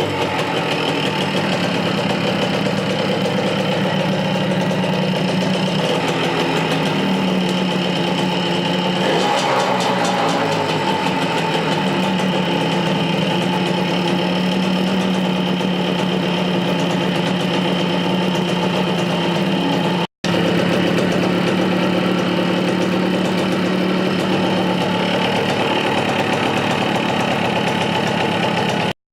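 Salute motorcycle engine idling steadily, newly got running after a long struggle to start it. There is a brief change in engine note about nine seconds in and a momentary drop-out of the sound just after twenty seconds.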